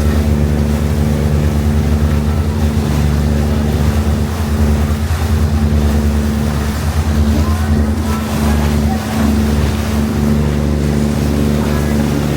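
A boat's engine running steadily underway, a constant low drone, with wind and water noise over it.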